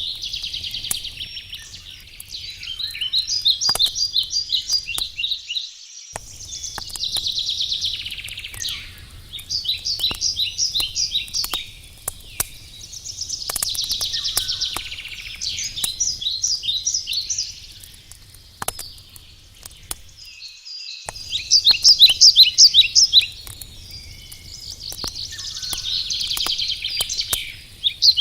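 A songbird sings over and over, alternating a hazy warble with a fast trill of evenly spaced notes every few seconds, the loudest trill a little past the middle. Under it, the sharp pops and crackles of a burning wood campfire.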